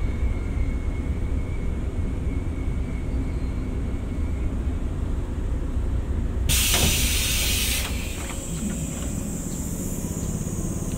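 Electric train with a steady low rumble, then a loud burst of compressed-air hiss about six and a half seconds in, lasting just over a second.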